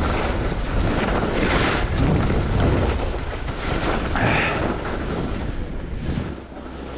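Wind buffeting the microphone: a steady rushing rumble with brief hissing swells about one and a half and four seconds in, easing off near the end.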